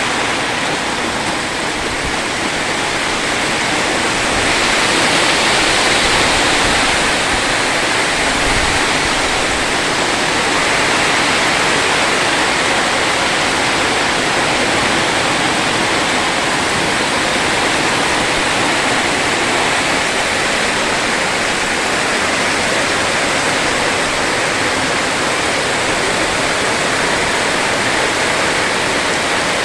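Loud, steady rush of water, unbroken for the whole stretch.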